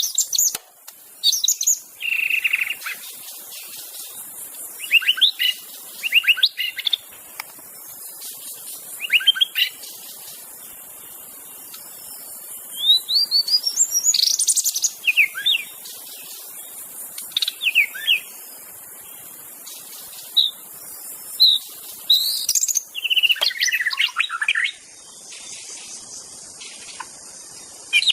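White-rumped shama singing its own natural song without mimicry of other birds. It gives short, varied phrases of quick whistles and slurred notes, separated by pauses of a second or more, over a faint steady high hiss.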